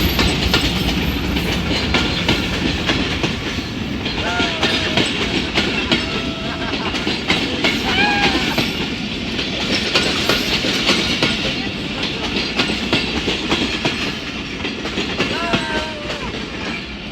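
A train passing close by, its wheels clattering steadily over the rail joints.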